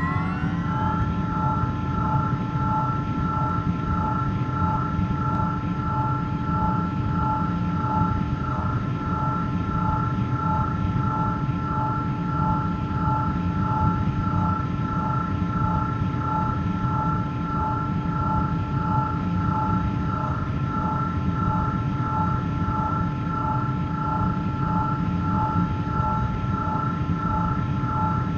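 Space sound made audible from instrument-recorded electromagnetic vibrations: a dense, low rumbling noise under steady high tones at three pitches that pulse in an even, fast rhythm.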